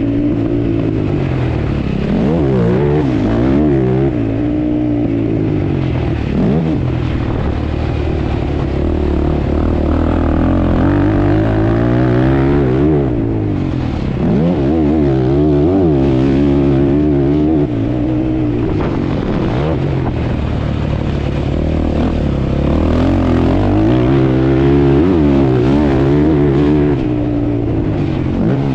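ATV (quad-bike) engines racing motocross, revving up and dropping back over and over. More than one engine note rises and falls at the same time.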